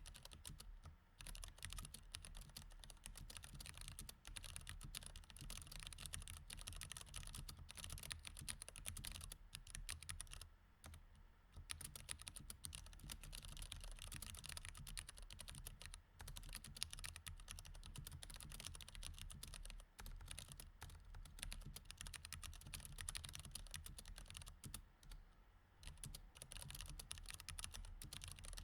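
Quiet, rapid typing on a mechanical keyboard with Cherry MX Red switches, the keystrokes running together into a steady patter. It breaks off in short pauses about a second in, around ten seconds in, and again near the end.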